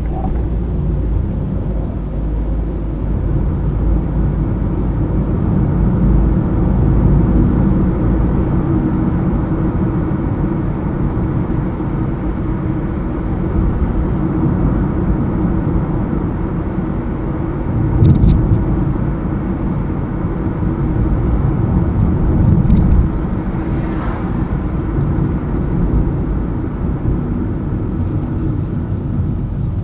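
A car driving along a highway, with steady engine and tyre road noise. Two brief thumps come a little past halfway, about five seconds apart.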